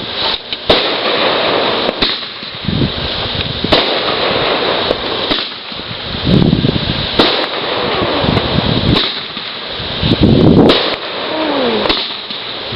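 Consumer fireworks going off: sharp bangs, roughly one every second and three-quarters, over a steady crackle, with a short falling whistle near the end.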